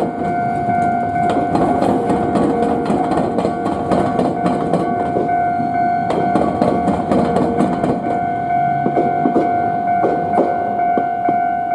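Level-crossing warning bell ringing steadily while a suburban electric train crosses a street-level diamond crossing, its wheels clacking rapidly over the crossing's rail joints. The clacks thin out in the last few seconds as the train clears, and the bell keeps ringing.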